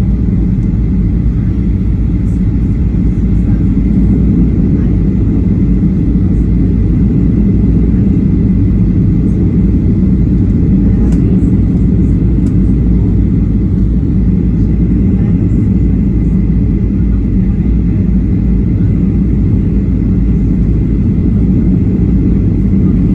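Steady, loud low rumble of engine and airflow noise inside the cabin of a Boeing 737-800, heard from a rear window seat, with a faint steady high tone above it.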